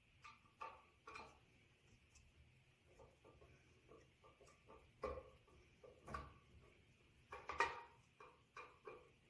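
Faint, irregular clicks and light knocks of a screwdriver and small metal parts being worked while ceiling fan blades are unscrewed. The loudest is a short cluster of knocks about seven and a half seconds in.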